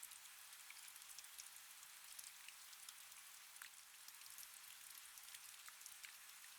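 Faint, steady rain: a soft hiss with many scattered drop ticks.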